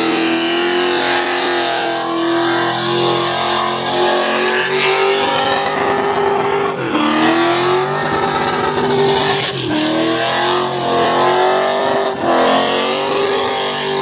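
Car engine held at high revs during a burnout, with the spinning tyres adding a rough hiss. The revs dip and climb back three times.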